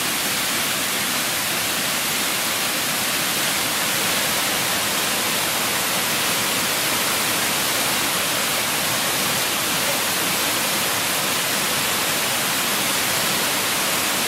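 Waterfall cascades rushing steadily: an even, unbroken noise of falling water.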